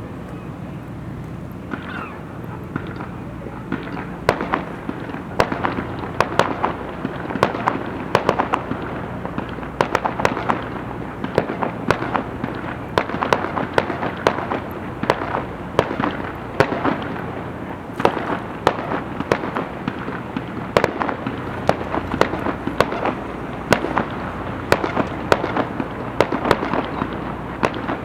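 Fireworks going off in rapid succession: many sharp bangs and crackles, growing dense about four seconds in and continuing thickly.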